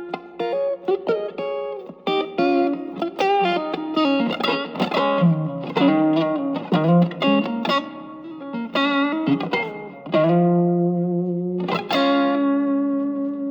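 Electric guitar played through an Ibanez TS808 Tube Screamer overdrive pedal on a boost setting, lightly driven. A run of quickly picked notes, then a chord struck about ten seconds in and another near the end, each left to ring.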